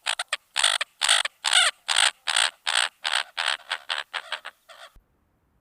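American coot calling: a rapid series of short, harsh calls, about four a second, that fades and stops near the end.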